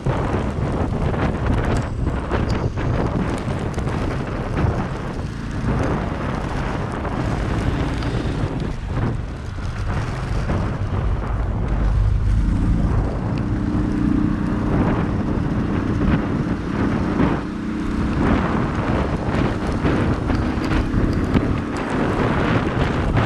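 Morning rain with wind buffeting the microphone in gusts. About halfway through, a low engine hum joins in for several seconds, then fades.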